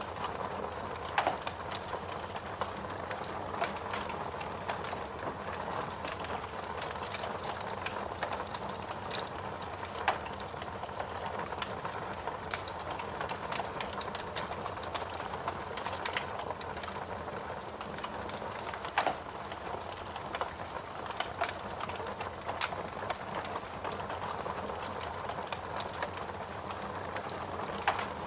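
Wood logs burning in a fireplace: a steady hiss of flame with frequent small crackles and a few louder pops.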